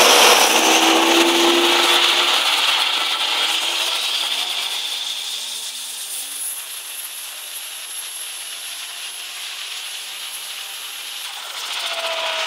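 Holden Rodeo's turbocharged engine running on the dyno. Its revs settle down over the first few seconds, it runs steadily at a lower level, and it picks up again near the end.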